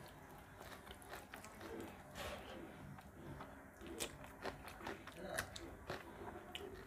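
Close-miked mouth sounds of a person eating rice with fish curry by hand: wet chewing, lip smacks and irregular sharp clicks, the loudest a little past the middle.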